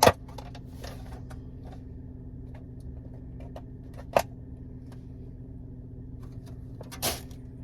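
Takeout breakfast container being handled and pried open: scattered small clicks and taps, with a sharp knock right at the start, another about four seconds in, and a brief scraping rustle about seven seconds in, over a steady low hum.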